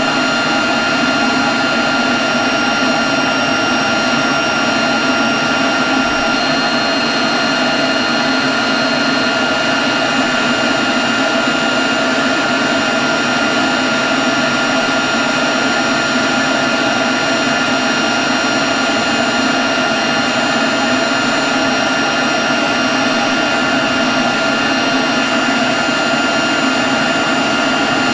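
Leaf blower running steadily at constant speed: a loud rush of air with a steady high fan whine over it.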